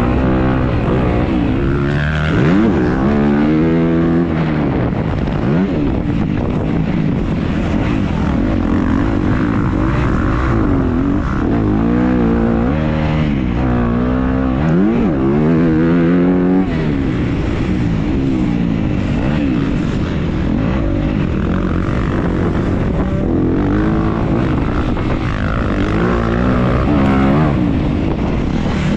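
Dirt bike engine ridden hard on the rider's on-board camera, its pitch climbing and dropping again and again as it revs up through the gears and backs off.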